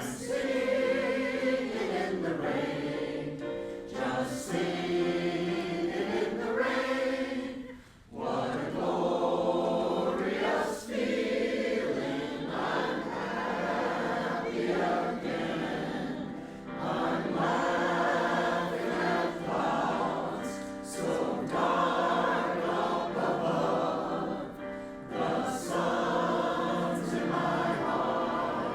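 A choir singing in harmony, with a short break about eight seconds in.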